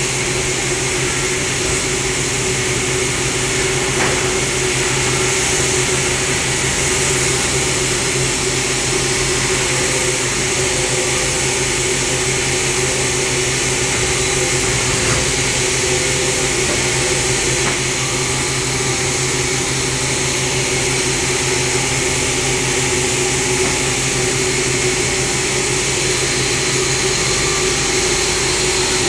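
Wood-Mizer LT70 band sawmill running steadily: a loud, even machine hum with fixed tones that does not change in pitch or level.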